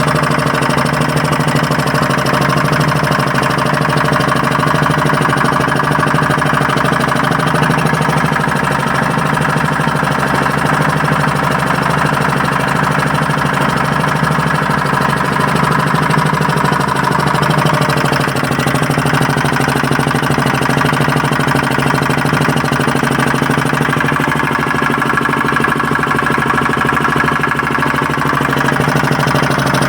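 Air-cooled generator engine running steadily at an even speed. Its cooling fan is not turning, and the engine is running hot because of it, per the mechanic.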